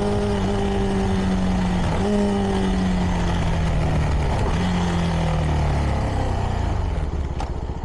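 CFMoto 300NK's engine through its stock exhaust, cruising at a steady note with a brief dip and recovery about two seconds in, then falling in pitch as the bike slows, settling to a lower, uneven rumble near the end.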